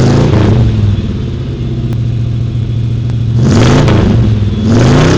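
A car engine being revved: a blip of the throttle at first, then it settles to a steady idle, then it is revved up twice more near the end.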